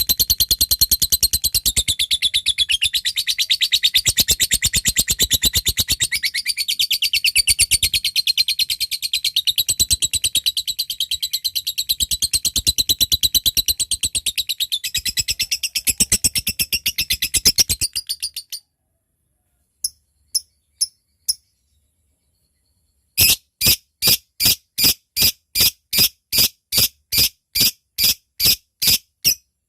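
Lovebird giving a long ngekek, a rapid unbroken chatter of high-pitched notes for about eighteen seconds, which stops suddenly. After a short pause it gives a few sharp ticks, then a steady series of clicking ngetik notes, about two and a half a second.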